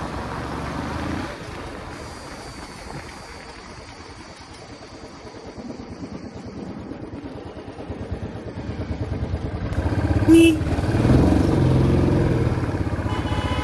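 Royal Enfield Classic 350's single-cylinder engine and exhaust on the move, easing off through the middle and building up again from about eight seconds in, with a brief sharp sound about ten seconds in.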